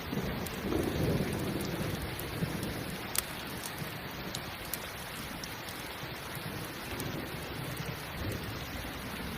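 Steady rain with a low rumble of thunder that fades over the first couple of seconds, and a few sharp pops from a crackling campfire.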